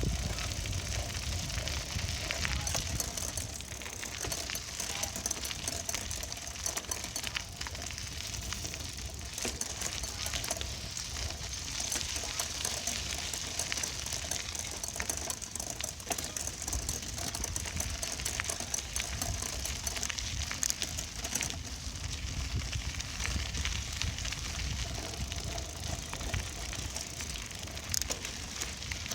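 Bicycle riding along, heard as a steady crackling rattle dotted with small clicks and knocks, over a low rumble of wind buffeting the microphone.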